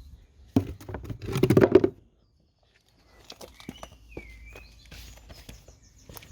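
Close, rapid rubbing strokes of a cloth buffing a metal exhaust tip, loud for about a second and a half. Then a short dead gap, then faint bird chirps and light clicks.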